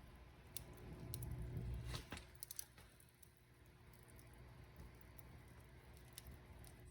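Wood fire crackling faintly in a fireplace: scattered sharp pops and snaps over a low rumble that eases off about two seconds in.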